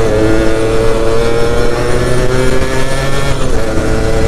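Yamaha F1ZR two-stroke moped engine running under load while riding, holding a steady note that climbs slowly, easing off about three and a half seconds in.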